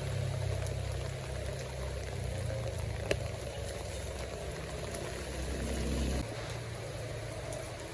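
Low, steady engine-like rumble under a steady rain-like hiss. The rumble cuts off suddenly about six seconds in, and a single sharp click comes about three seconds in.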